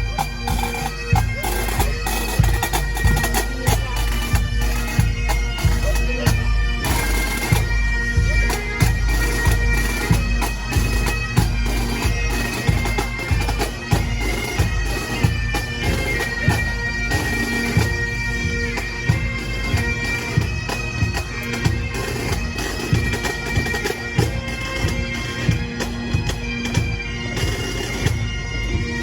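Pipe band playing: Highland bagpipes carry a melody over steady drones, with drum beats throughout.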